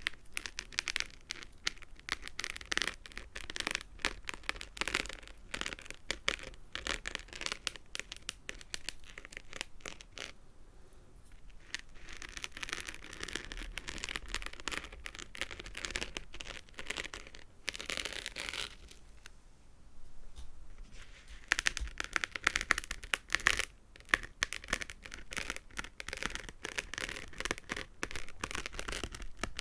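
Fingernails rapidly tapping and scratching on small hard objects, a dense patter of crisp clicks broken by two short pauses, with stretches of softer rubbing in between.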